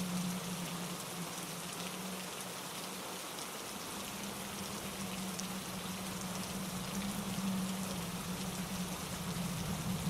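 Steady rain falling on leaves and pine needles, a dense patter of drops with a steady low rumble underneath.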